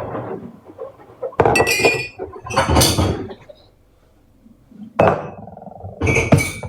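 Crockery or glass knocking and clinking in a few separate clatters, some leaving a short high ring.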